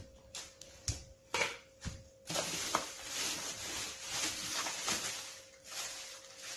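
Unboxing packaging being handled: a few light knocks and clicks, then about three seconds of continuous rustling that fades out near the end.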